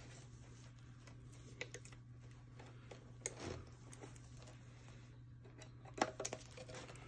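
Faint, scattered metallic clicks and taps of pliers and steel wire against a loose exhaust heat shield as the wire is worked under the shield and twisted tight, with a sharper cluster of clicks about six seconds in.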